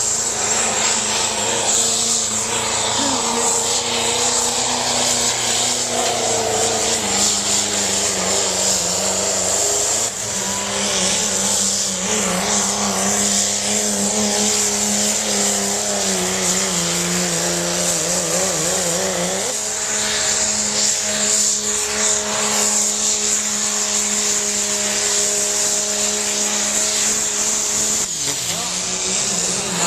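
Pulling tractor's engine running hard under full load during a pull, pouring out smoke. It is a loud continuous drone whose pitch wavers, then steps up about two-thirds of the way through.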